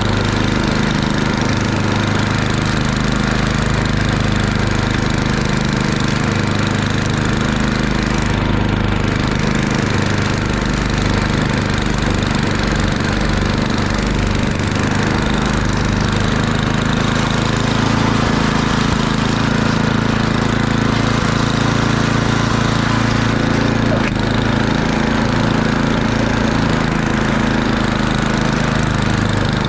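Murray Ultra 8/27 snowblower's 8 hp engine running steadily under throttle.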